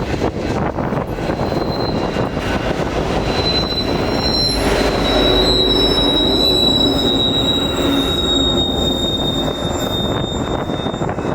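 Coal train's freight cars rolling past with a steady rumble and clatter of wheels on rail. A high, steady wheel squeal sets in about three seconds in, slides slightly lower in pitch, and fades near the end.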